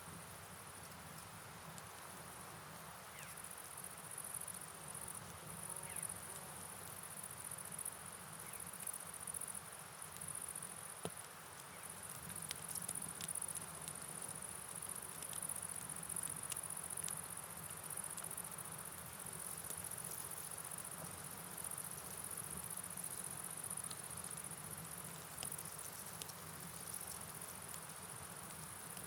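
Steady, high-pitched chorus of night insects, crickets chirping continuously, over a faint low rush of water, with a few faint scattered ticks.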